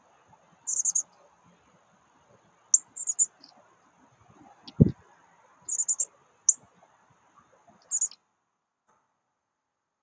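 Small birds chirping at a backyard feeder: short, very high chirps in quick clusters of two to four, over a faint steady high whine and soft hiss, with one dull thump about five seconds in. All sound cuts out abruptly a little after eight seconds.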